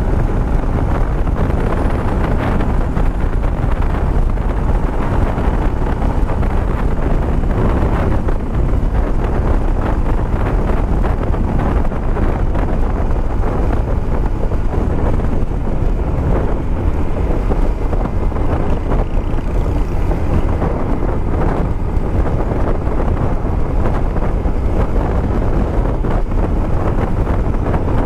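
Wind buffeting the microphone while riding a Yamaha Sniper 150 motorcycle at speed, a steady loud rush with the bike's single-cylinder engine running under it.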